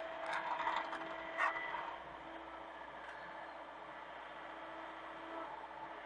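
Mini excavator running with a steady machine hum, with clanking and a sharp knock in the first two seconds. The hum drops away near the end.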